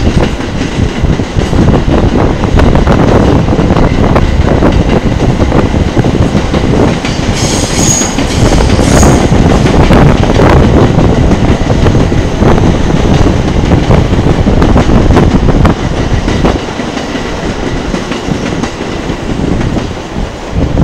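Passenger trains running on the tracks, their wheels clattering over rail joints, with two short high wheel squeals about eight and nine seconds in. The rumble drops off a few seconds before the end.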